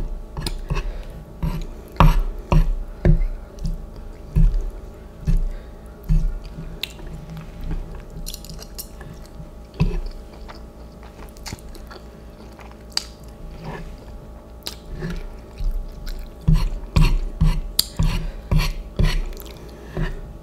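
A person chewing spicy instant noodles close to the microphone, with sharp mouth clicks and smacks coming in clusters. They are busiest in the first few seconds and again near the end, with a sparser stretch in the middle.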